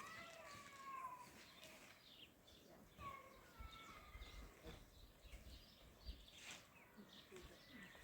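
Faint, short animal calls, several of them, each gliding up and down in pitch, over a quiet background hiss.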